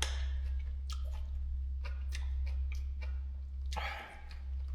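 Noodles and meat slices being stirred in a cooking pot, making short, irregular wet squishy sounds and clicks over a steady low rumble.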